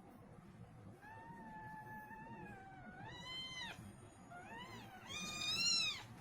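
A cat meowing three times: first a long drawn-out meow lasting nearly three seconds that rises at its end, then a short meow, then a louder one near the end.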